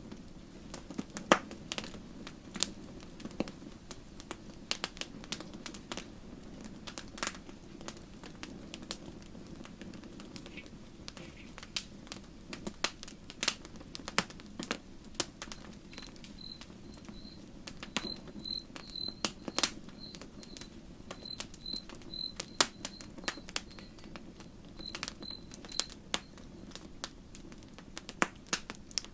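Wood campfire crackling, with irregular sharp snaps and pops over a low, steady rumble of burning. About halfway through, a faint, high chirp repeats a couple of times a second for around ten seconds.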